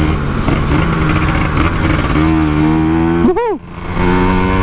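Two-stroke Kawasaki Ninja 150 RR engine in a Yamaha RX-King motorcycle, heard while riding. The engine runs under throttle with its pitch slowly climbing; about three and a half seconds in the revs shoot up and fall away with a brief dip in level, then it pulls on steadily again.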